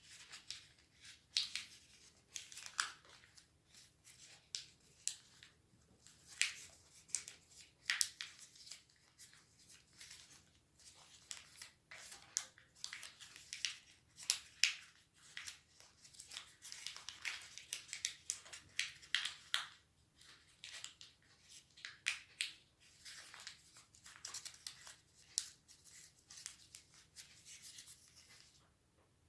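A sheet of origami paper being folded and creased by hand: many short, crisp rustles and creasing strokes at an irregular pace, easing off just before the end.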